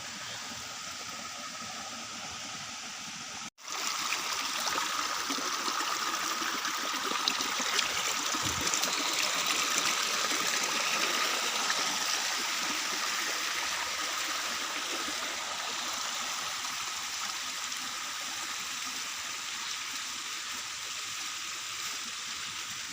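Steady rush of water, a running stream or rain on water. It breaks off for an instant about three and a half seconds in, then comes back louder and slowly eases.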